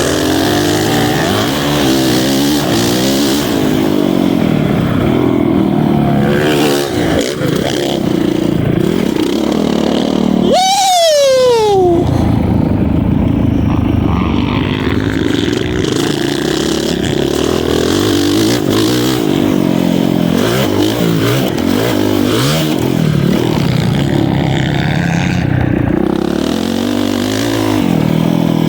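Honda CRF450R single-cylinder four-stroke dirt bike engine ridden around a motocross track, its revs rising and falling with the throttle through the turns. About ten seconds in it revs sharply high, then the pitch drops steeply over a second or so.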